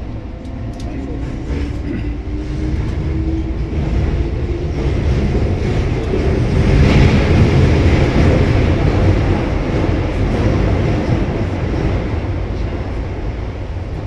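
Keihan electric train running in an underground tunnel, heard from inside the car. The traction motors whine, rising in pitch over the first few seconds as it gathers speed. The rumble of wheels on rail swells to its loudest about seven seconds in, then eases off.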